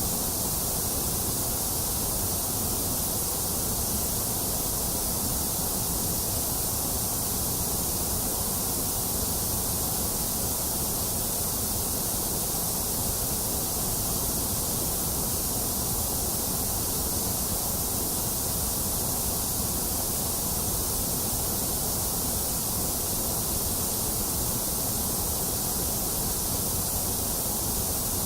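Steady, unchanging white noise: an even hiss across the whole range, brightest in the high treble.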